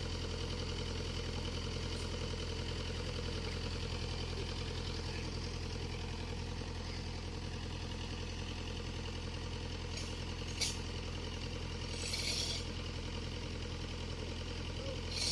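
Excavator engine idling steadily. A few brief hisses break in during the last third.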